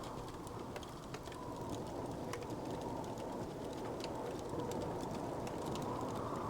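Wood fire crackling, with scattered sharp pops and snaps over a steady low, muffled rumble.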